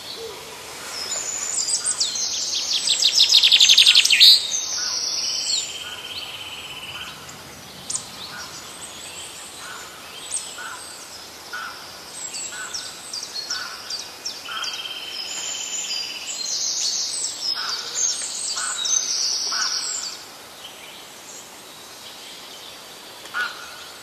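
Several birds singing and calling together, a mix of high chirps and trills, with a loud rapid trill building over the first few seconds and busier song again in the later part.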